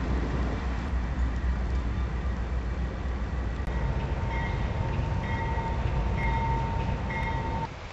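Freight cars rolling slowly past with a steady low rumble. About three seconds in, a steady high squeal joins, along with a shorter, higher squeal repeating about once a second. The sound cuts off just before the end.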